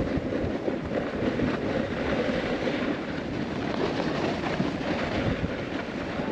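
Snowboard sliding over packed snow: a steady scraping hiss from the board's base and edges, with an uneven low rumble of chatter and wind on the microphone.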